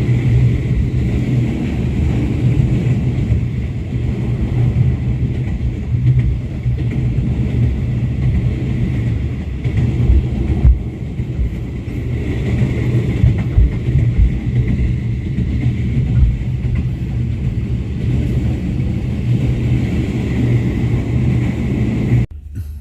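Diesel-hauled passenger train running along the track, heard from on board as a steady low running noise with occasional sharper knocks. It cuts off just before the end.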